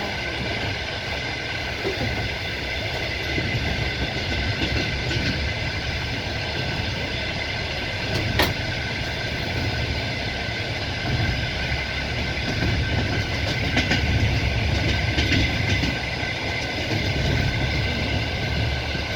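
Passenger train running along the line, heard from inside the carriage: a steady rumble of wheels on rail with a faint clickety-clack and a steady high hum, and one sharp click about eight seconds in.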